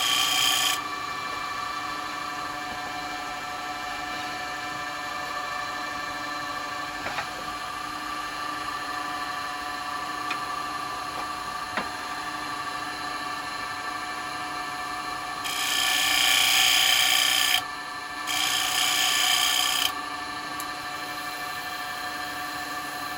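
Wood lathe running with a steady hum while a turning tool cuts an oak bowl. The hiss of the cut comes in three passes: briefly at the start, then twice about two-thirds of the way through.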